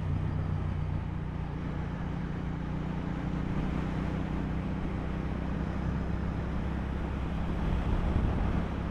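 Motorcycle engine running steadily while cruising, with road and wind noise; the engine note swells slightly near the end.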